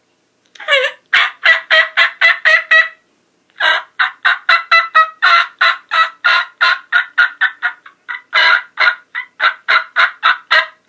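Diaphragm turkey mouth call blown in a cut: three runs of short, sharp, loud notes, about four to five a second, with brief pauses between the runs.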